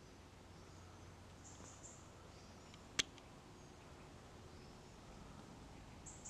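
Quiet woodland ambience: faint, brief high-pitched bird chirps come and go, and a single sharp click sounds about three seconds in.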